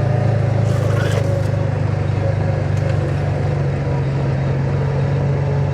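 Side-by-side UTV engine running steadily under way, a constant low drone heard from on board.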